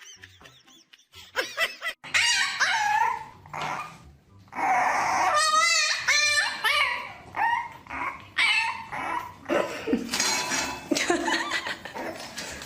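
A dog whining and yipping in a string of short calls that bend in pitch, with one longer wavering call about halfway through.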